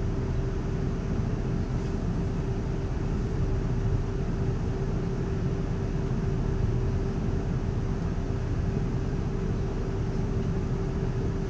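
Cabin noise inside a Class 360/2 electric multiple unit on the move: a steady low rumble with one constant hum over it.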